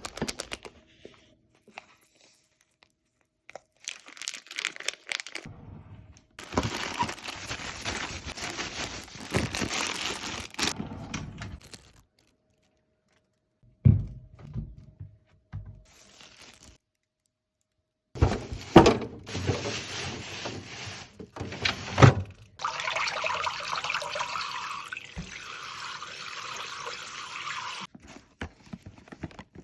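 Grocery packaging being handled: plastic bags and wrappers rustling and crinkling in long stretches, with a few sharp knocks as items are set down. The stretches are broken by sudden silent gaps.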